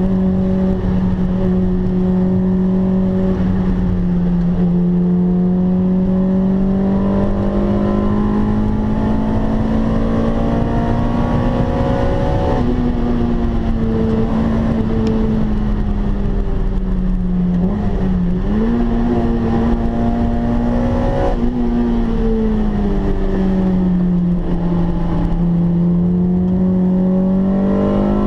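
Honda Integra Type R DC2's 1.8-litre four-cylinder VTEC engine under load on track, heard from inside the cabin with road and tyre noise beneath it. Its pitch climbs slowly with revs, dips sharply for a moment about two-thirds of the way through, then falls and climbs again near the end.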